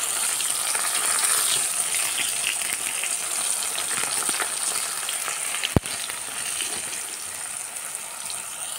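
Chopped tomato and whole dried red chillies sizzling and crackling in hot mustard oil in a kadhai. A single sharp click comes nearly six seconds in, after which the sizzle is slightly softer.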